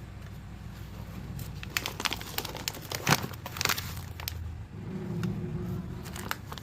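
Handling of a packet of crunchy kaimurukku: a quick run of crinkling, crackling clicks in the middle, a few more near the end, over a low steady hum.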